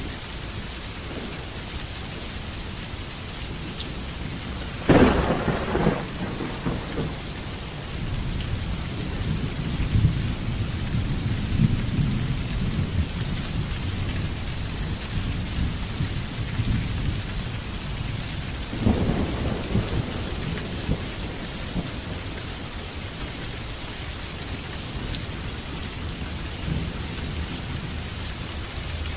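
Heavy rain falling steadily, with thunder: a sharp clap about five seconds in, low rumbling for several seconds after it, and a second clap a little past the middle.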